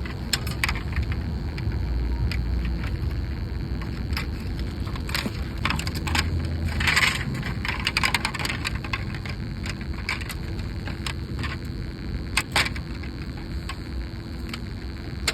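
Hands handling a car hubcap (wheel cover) at the wheel: scattered sharp clicks and clatter, with a longer scraping rustle about seven seconds in, over a steady low rumble.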